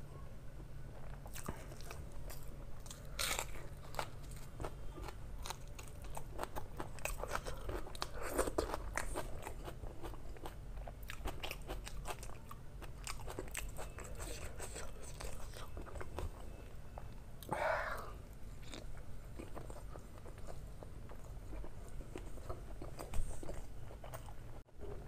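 Close-miked eating: a person chewing a mouthful of curry and rice, with a run of small wet clicks and lip smacks. A few louder mouth noises come about 3, 8 and 18 seconds in.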